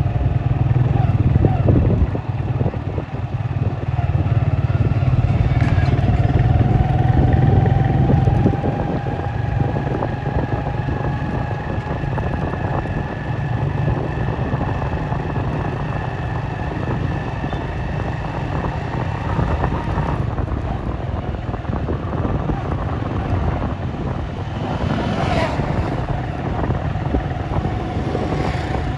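Vehicle engine running steadily in road traffic, loudest for the first eight seconds and then easing to a steady hum with a faint held whine.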